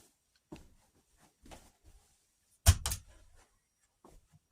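Two sharp knocks close together, a little before three seconds in, after a few faint handling sounds.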